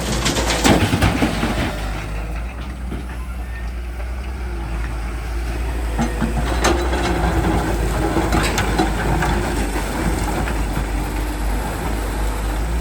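Diesel engine of a JCB 3DX backhoe loader running steadily under work, with sharp knocks and clanks: several in the first second and single ones about a third and two-thirds of the way through, typical of the bucket working and mud being dumped.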